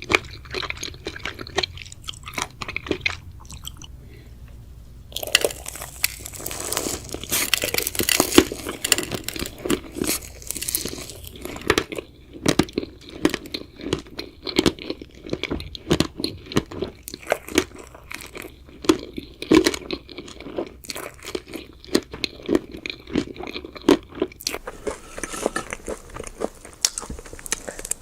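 Close-up eating: a crunchy chocolate snack bitten and chewed, a dense run of crunches with a short quieter pause about four seconds in.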